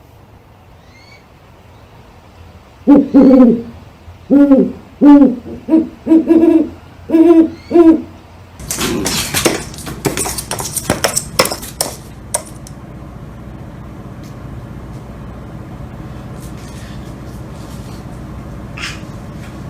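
An owl hooting, a run of about seven short, low hoots, followed by a few seconds of loud rustling and crackling noise.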